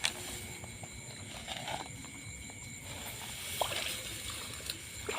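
Water sloshing and trickling in small scattered splashes, with a sharp knock right at the start.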